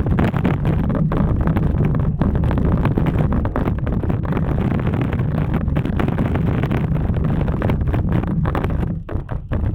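Wind buffeting the microphone of a camera carried on a moving bicycle: a loud, steady low rumble that drops out briefly a few times near the end.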